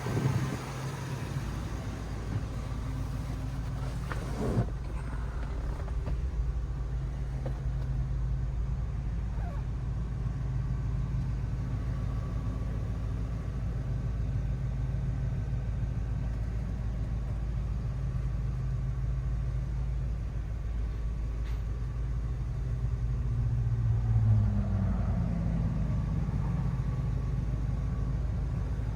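Ford 6.2L gas V8 pickup engine idling steadily, with a single knock about four seconds in and a short blip of the throttle near the end that rises and falls back to idle.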